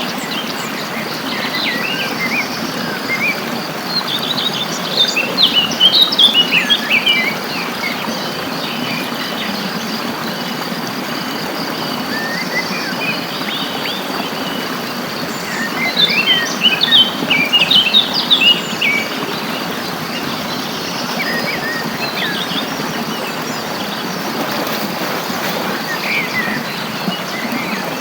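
Wild songbirds chirping and singing in quick, busy bursts, loudest about five seconds in and again near the middle, with scattered single chirps in between. Under them run a steady high insect drone and an even hiss.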